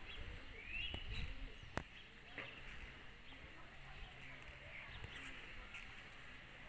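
Small birds chirping and calling in scattered short notes, with one rising whistled call in the first second. A faint low background rumble underneath.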